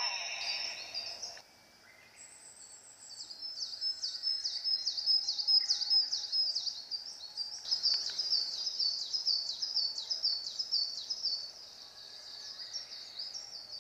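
Bird chirping: a rapid, evenly repeated high-pitched call, about three or four chirps a second, starting a few seconds in.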